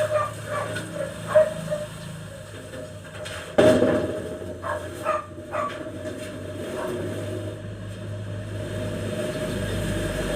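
A single loud knock about three and a half seconds in, like timber or a hammer blow during carpentry work, with a dog barking now and then.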